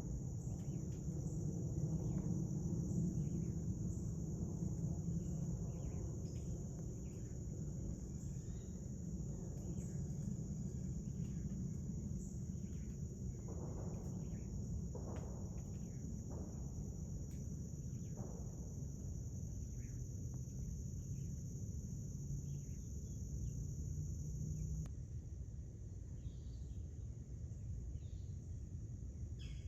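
Steady, high-pitched chorus of crickets in the woods, over a low rumble, with a few faint short calls from other animals scattered through it.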